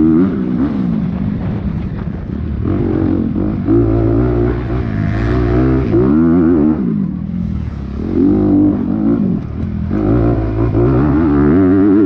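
Dirt bike engine heard from on the bike, revving hard and dropping back again and again as the throttle is worked through the course, its pitch climbing and falling several times.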